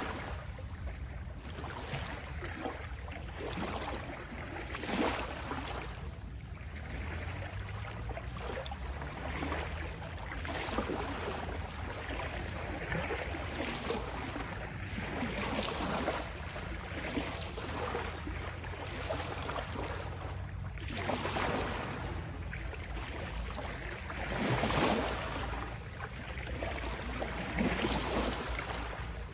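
Small sea waves lapping and washing at the shore over a steady low rumble, swelling a little louder about every ten seconds.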